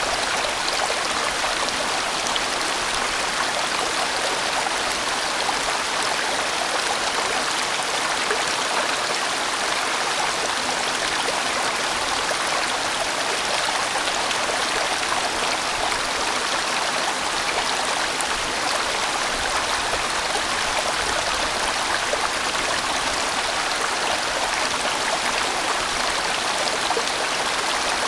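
Large mountain stream rushing steadily over rocks, a full, even flow of water.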